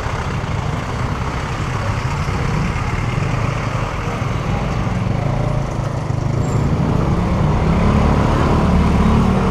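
Motor scooter's small engine running on the move, with road and wind noise; the engine note rises and grows louder near the end as it speeds up.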